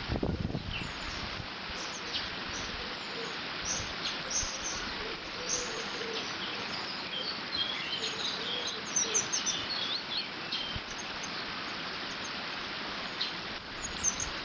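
Water rushing steadily through a beaver dam, with small birds chirping and singing over it, most busily in the middle. There is a brief low rumble right at the start.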